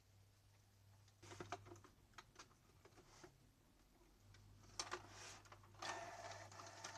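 Canon G2000 inkjet printer's mechanism running after its dried grease was replaced with white grease: a few soft clicks and ticks, then from about six seconds a quiet, steady motor whine. It runs quietly, the grinding from the dry grease gone.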